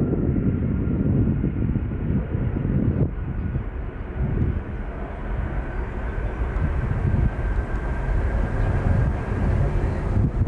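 Jet airliner engines running: a steady rumble with a faint whine that rises slowly in pitch.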